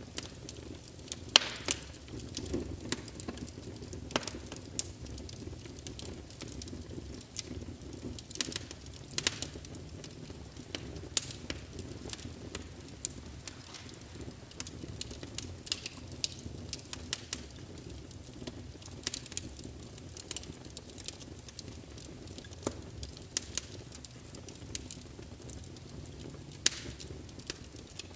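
Wood fire crackling in a fireplace: a steady low rumble of flame with irregular sharp pops and snaps.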